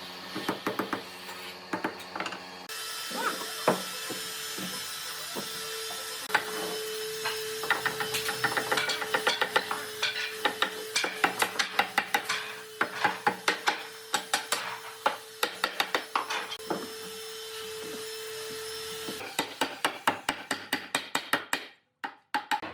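Hand-tool work on solid wood: rapid knocks, taps and scraping strokes against the wood. A steady machine hum runs underneath from about three seconds in until near the end.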